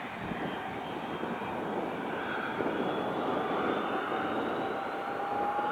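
Airplane engine running with a steady noise and a faint whine that rises slowly and grows stronger near the end, as the plane cleared for takeoff powers up for its run.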